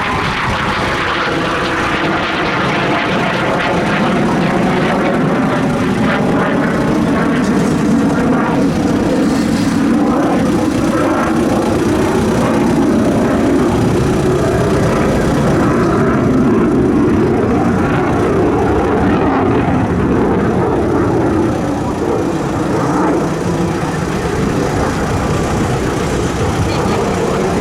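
Leonardo AW249 Fenice attack helicopter in flight: steady, loud rotor and turbine noise.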